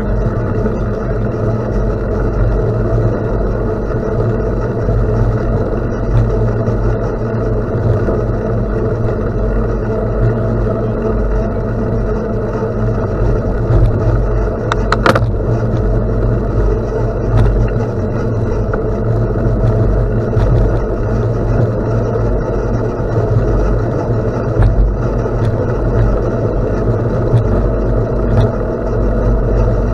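Steady wind rush over the microphone and rolling noise from a bicycle being ridden on a gravel ride, with a single brief click about fifteen seconds in.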